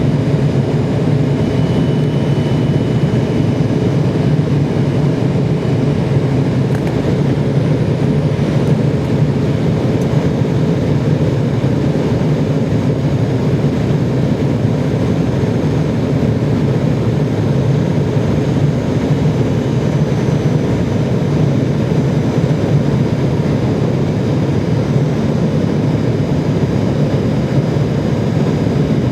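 Steady, loud engine and airflow noise inside an aircraft cabin during flight, constant and unchanging.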